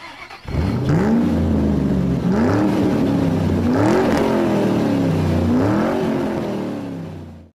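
C7 Corvette Stingray's V8 engine being revved: the pitch climbs quickly and sinks back slowly about four times, then fades out near the end.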